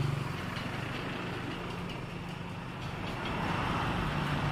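Steady low hum of a motor vehicle's engine running, a little louder toward the end.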